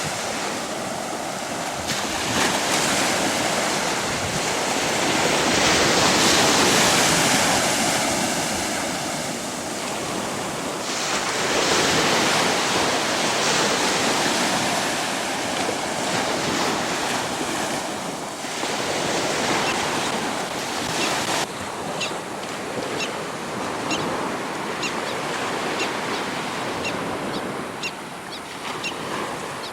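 Surf washing onto the beach, swelling and easing in waves, with some wind on the microphone. From about two-thirds of the way in, a run of short, high ticks sounds over the surf.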